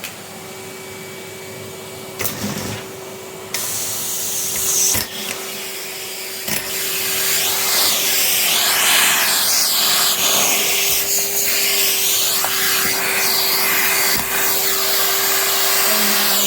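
Henry cylinder vacuum cleaner running with a steady hum, its suction noise rising about four seconds in and louder again a few seconds later, shifting as the nozzle is worked, with a few short knocks.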